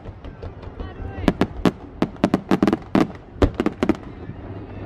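Fireworks crackling overhead: a rapid, irregular run of sharp pops and cracks, densest between about one and four seconds in, then dying away into a low rumble near the end.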